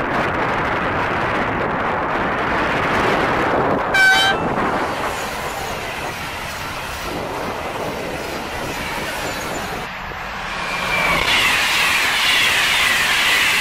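A double-deck TGV high-speed train passing at speed, with a short horn blast about four seconds in. Near the end a TER passenger train of single-deck coaches runs past close by, its wheels rushing on the rails.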